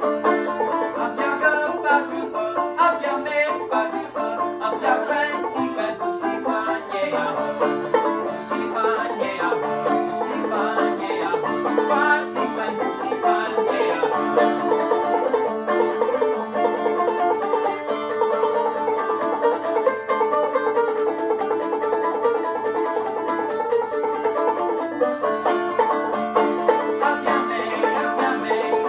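Five-string banjo played clawhammer style: a steady, unbroken run of plucked notes.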